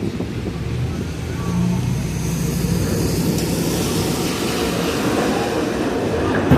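Subway train approaching on the elevated line, its rumble and hiss building from about two seconds in, with a steady whine coming in near the end. A heavy vehicle's engine runs underneath in the first half.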